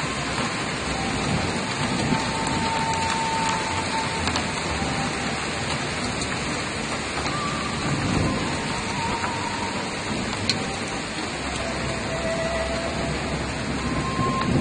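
Heavy downpour during a cloudburst: rain falling steadily as a dense, even hiss.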